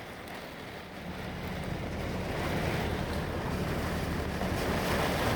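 Strong wind rushing and buffeting the microphone, growing steadily louder over the few seconds.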